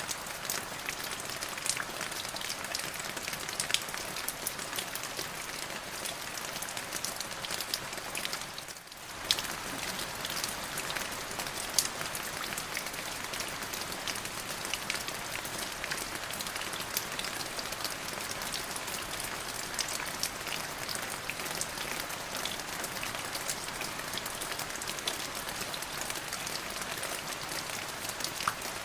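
Steady rain falling, with individual drops pattering sharply on a surface. There is a brief dip about nine seconds in.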